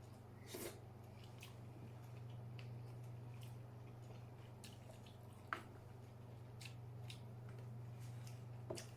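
Scattered small clicks and soft squishing of king crab legs being picked apart and chewed, with a few sharper snaps of shell, over a steady low electrical hum.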